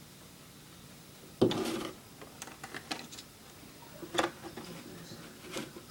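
A sudden thump about a second and a half in, then a run of light clicks and taps and two sharper knocks.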